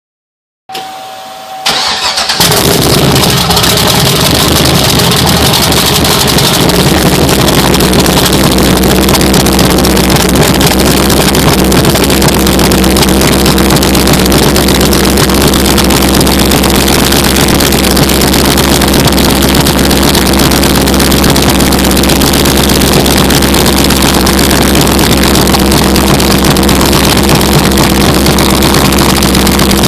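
First start of a freshly built twin-turbo V8 in a second-generation Cadillac CTS-V: a short starter whine, then the engine fires about two seconds in and settles into a steady idle.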